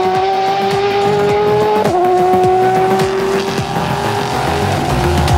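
High-revving racing car engine accelerating through the gears: its pitch climbs slowly, then drops sharply at an upshift about two seconds in, and climbs again.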